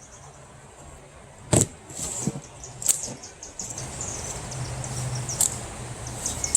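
A heavy cardboard-boxed air compressor being handled and lifted off a table. A sharp knock comes about a second and a half in, with two lighter knocks later and handling noise between them.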